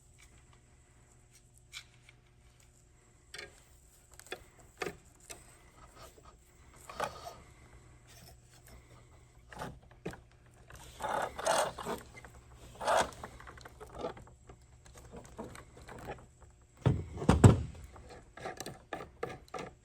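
Scattered clicks, scrapes and clatter of a hand tool working the nut off a model airplane's propeller, busiest about halfway through, with a heavier thump a few seconds before the end.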